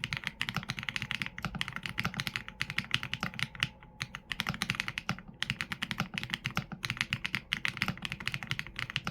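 Fast, continuous typing on a mechanical keyboard with Leobog Graywood V4 linear switches and PBT keycaps: a dense run of keystroke clicks with a couple of brief pauses about four and five seconds in.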